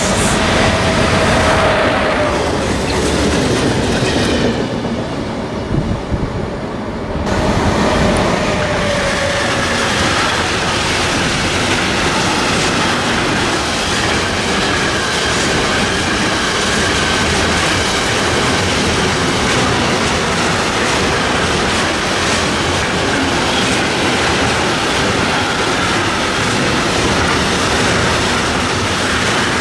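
Trains passing at speed with steady wheel and rail clatter. First comes a DB class 103 electric locomotive hauling sliding-wall wagons. About seven seconds in the sound changes to an intermodal freight train rolling past for the rest of the time.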